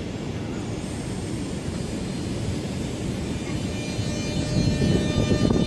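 Class 466/465 Networker electric multiple unit pulling away from the platform. Its traction motors whine in a stack of high tones that comes in about three seconds in, over a rumble that grows louder toward the end.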